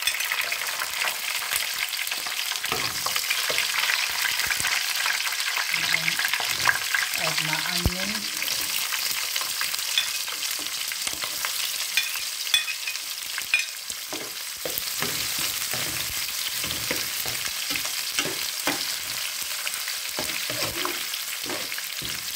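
Green chillies and sliced onions sizzling in hot oil in a large metal pot, the frying hiss starting suddenly as the chillies go in and running on steadily. A few sharp clinks of the metal ladle against the pot and plate sound over it.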